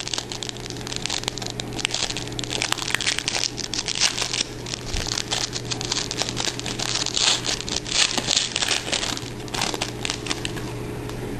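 Crinkling and crackling of a trading-card pack wrapper being opened and handled, with many small rustles and clicks, easing off near the end.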